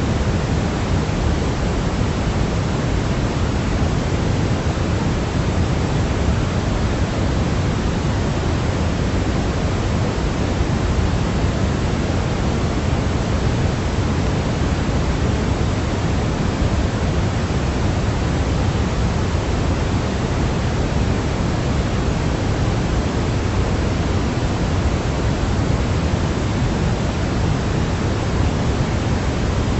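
Steady baby-sleep white-noise track: a constant, even hiss, heavier in the low end than the high, with no change at all.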